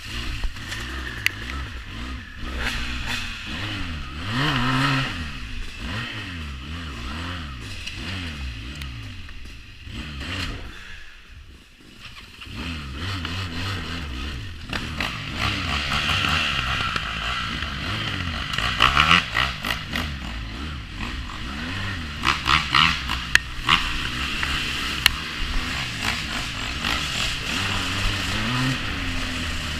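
350cc quad bike engine revving up and down as it rides over rough ground. It drops away briefly near the middle, and there are bursts of clattering and scraping about two-thirds of the way through.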